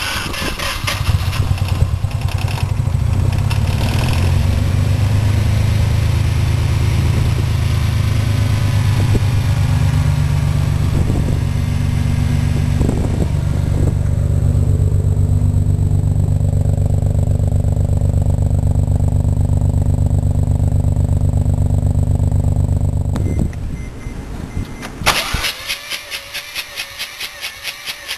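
Rotary engine running with a loud, steady low drone as it blows up, cutting out suddenly about 23 seconds in. A rhythmic pulsing, about two to three beats a second, follows near the end.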